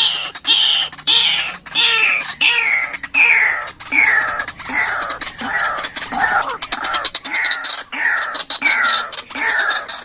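White-breasted waterhen calling, a lure recording of its repeated call: about two notes a second, each note falling in pitch.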